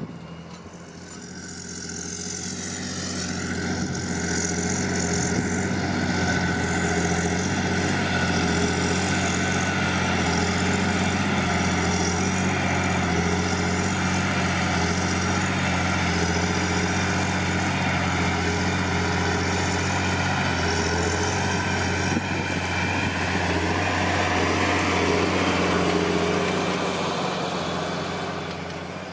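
John Deere 8520T tracked tractor's 8.1-litre PowerTech 6081 six-cylinder diesel running steadily under load while pulling a four-furrow plough. It grows louder over the first few seconds and fades near the end.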